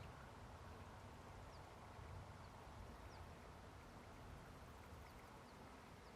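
Near-silent meadow ambience: a soft steady hiss with a few faint, brief high chirps scattered through it.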